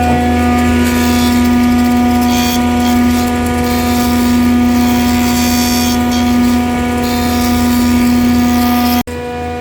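Electric power tool running steadily at constant speed, a motor hum with a shifting scratchy noise on top as it works a surface. It cuts off abruptly about nine seconds in, leaving a quieter steady hum.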